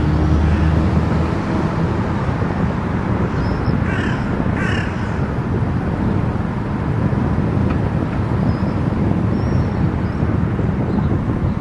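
Steady road and engine noise of a car driving on an expressway. About four seconds in there are two short, harsh calls half a second apart.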